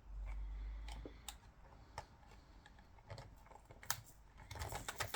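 Small clicks and taps of a DSLR camera body, its parts and tools being handled and worked on during disassembly, with a low rumble of handling in the first second and a quick run of clicks near the end.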